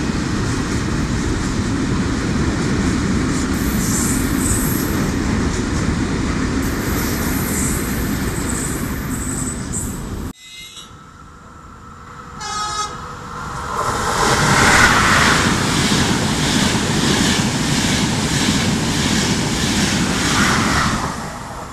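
A freight train of open wagons rolling past with a steady rumble of wheels on rail. After a sudden cut comes a short horn toot, then an Intercity passenger train running through, its wheels clicking over rail joints at an even beat.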